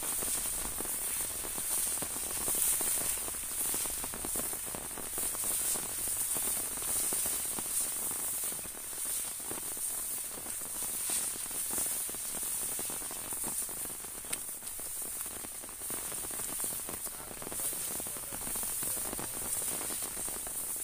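Steady rain drumming on an umbrella held overhead, a dense patter of drops on the canopy over the hiss of rain falling across the field.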